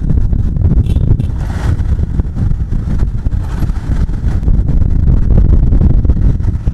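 Wind buffeting the microphone over the steady running of a motorcycle while it is ridden.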